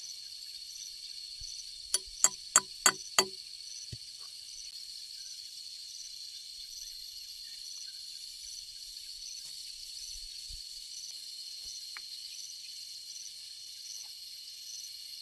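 Steady high-pitched insect chirping, with a soft pulse about every half second. Five sharp knocks with a short ring follow one another about a third of a second apart, two to three seconds in.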